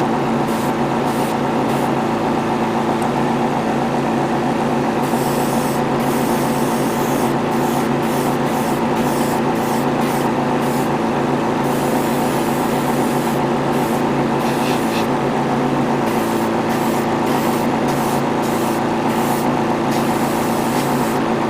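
Airbrush compressor running with a steady hum, while the airbrush sprays paint in hissing bursts that start and stop many times.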